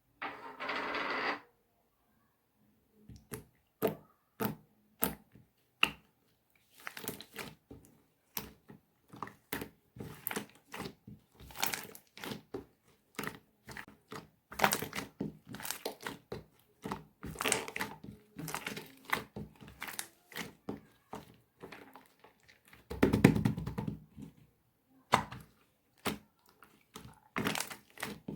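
Slime being mixed and squeezed by hand, giving a run of irregular sticky pops and crackles, with a louder, fuller squelch about two thirds of the way through.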